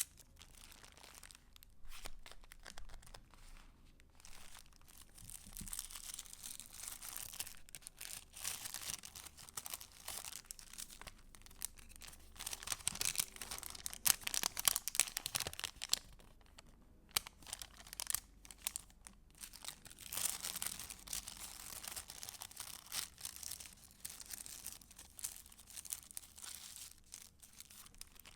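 Paper pages of a handmade junk journal being handled and turned: a continuous soft rustling and crinkling with small crisp ticks, busiest about halfway through.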